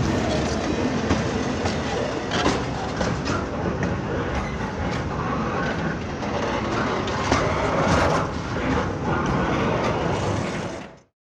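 Train rolling past, a steady rumble with wheels clicking irregularly over rail joints; it cuts off abruptly near the end.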